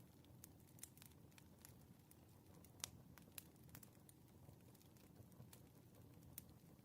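Faint crackling of a wood fire: irregular soft pops and snaps over a low rumble, with one sharper pop about three seconds in.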